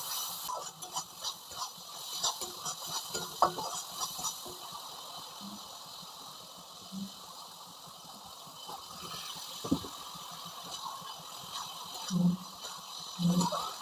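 Cooking sounds: a steady hiss with scattered clicks and knocks, like utensils working in a pan, and a few louder knocks near the end.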